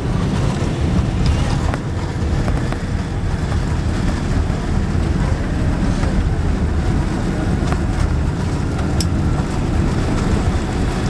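Cabin noise of a Boeing 767-300 during landing: a steady, loud low rumble and rush of air, with a few faint clicks and rattles.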